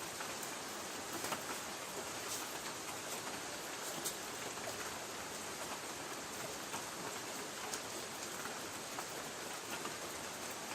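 Light rain falling on a tin roof: a steady patter with scattered sharper ticks of individual drops striking the metal.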